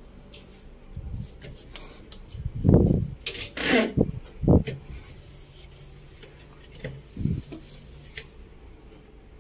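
Cloth rubbing and wiping over the surfaces of a refrigerator, with a few dull thumps and knocks, the loudest about three seconds in.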